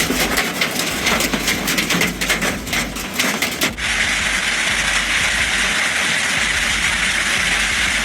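Hailstones pelting a vehicle in a thunderstorm as a dense, irregular clatter of impacts. About four seconds in it switches abruptly to a steady roar of hail and heavy rain.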